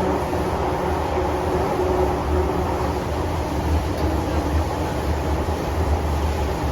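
MTR M-Train electric multiple unit running along the Tsuen Wan Line: a steady, even rumble of wheels on rail, heaviest in the low end. A faint steady whine sits over it for the first couple of seconds.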